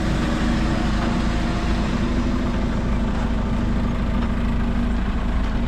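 Heavy diesel engine idling steadily, with a constant low hum.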